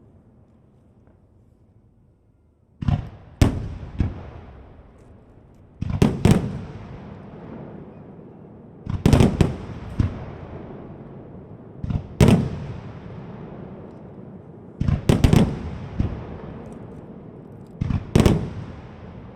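Aerial fireworks shells bursting in clusters of sharp bangs about every three seconds, each bang trailing off in a long rolling echo. The first few seconds hold only the fading echo of earlier bursts.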